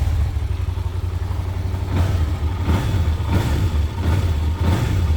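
2002 Yamaha TDM900's parallel-twin engine running on its original exhaust, a steady low idle with several short rises from about two seconds in.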